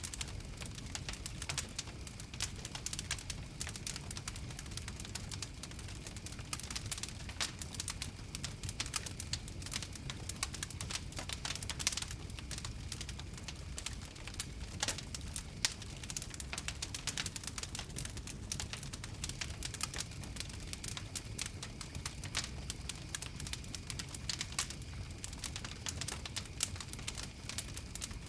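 Fire crackling, with frequent short sharp pops and snaps scattered irregularly over a low steady rumble.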